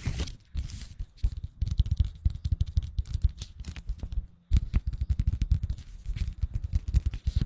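Thin, oil-blotting-paper-like sheets handled close to the microphone: a fast, irregular run of soft crackles and taps, with a brief pause about four seconds in.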